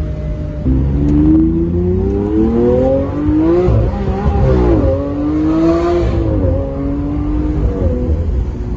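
Lamborghini Aventador's V12 engine accelerating, heard from the open cockpit: its note climbs steadily in pitch, drops sharply at a gear change almost four seconds in, climbs again and drops at another shift near the end, over a steady low rumble and wind rush.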